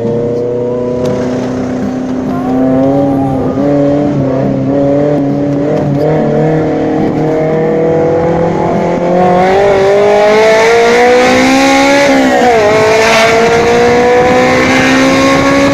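Honda S2000 four-cylinder engine with a modified exhaust accelerating hard, its note climbing steadily through the revs. The pitch drops sharply at a gear change about twelve seconds in, then climbs again.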